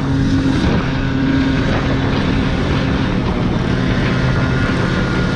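Small 90cc engine running flat out at a steady high speed, its pitch held nearly constant, with wind rushing over the microphone.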